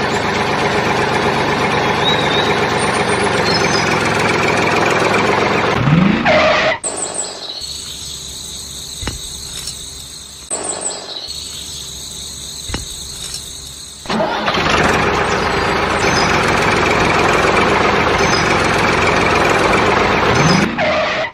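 Tractor engine running, broken by a rising whoosh about six seconds in and another near the end. Between them is a quieter stretch with faint clicks.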